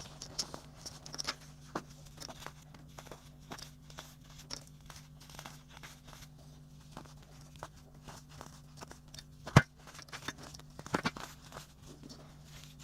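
Chunks of baking soda crunching and crumbling, a steady run of small crackles with one sharp, loud snap about three quarters of the way through and a burst of louder crackles just after.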